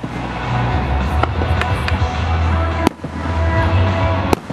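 Aerial fireworks bursting, with several sharp cracks over a steady low rumble, and music playing throughout.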